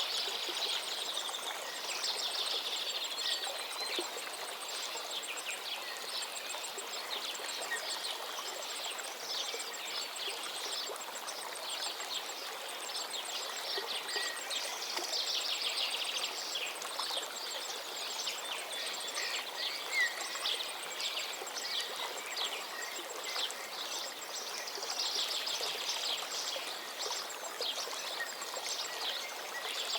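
Songbirds singing and chirping over the steady rush of a gently flowing river. The birdsong swells in a few busy bursts.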